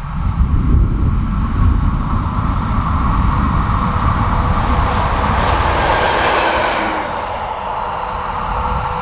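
An electric train passing on the mainline over a heavy low rumble. A rush of wheel and air noise builds to its height about five to seven seconds in and drops away sharply near seven seconds.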